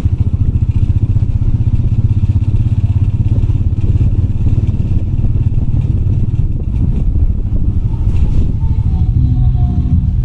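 Motorbike engine running steadily under way, a fast low throb, with rattling from the bike on a rough off-road trail.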